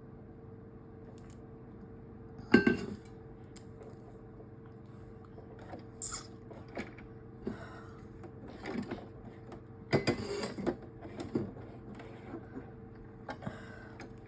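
Small objects being handled and set down on a work desk: scattered clicks and light clatter, with one sharp knock about two and a half seconds in and a burst of clatter around ten seconds in, over a steady low hum.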